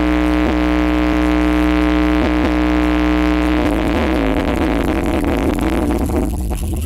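Sound-horeg loudspeaker system played at full volume: a steady, buzzing drone over heavy bass, dipping briefly in pitch a few times. About three and a half seconds in it breaks into a rougher, jumbled mix, and it eases off a little near the end.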